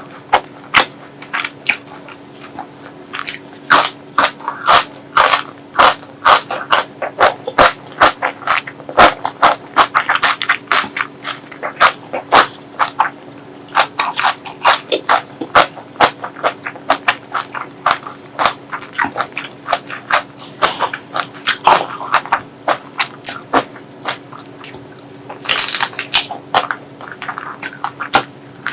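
Close-miked eating: food being bitten and chewed, heard as a dense, irregular run of sharp clicks, several a second.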